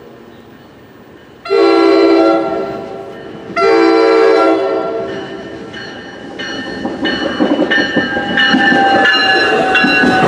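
Train horn sounding two long blasts, each about a second, then the approaching train growing steadily louder with rail noise and ringing steady tones.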